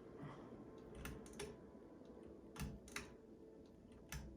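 Faint scattered clicks, about six over four seconds, over a low steady hum.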